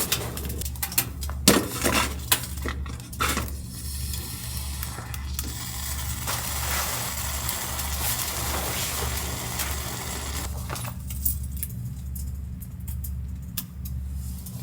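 Elvan (maekbanseok) sauna stones being set in place, clinking and knocking against one another and their container, followed by several seconds of steady rattling that stops suddenly, over a low pulsing hum.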